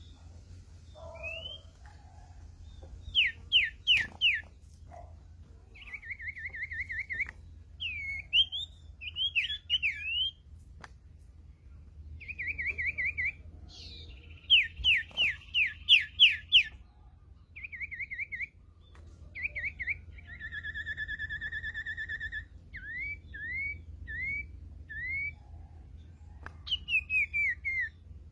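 Sirtu bird whistling a varied series of clear calls: quick runs of downward-sweeping notes, rapid trilled phrases, one long steady whistle, and a string of short rising notes.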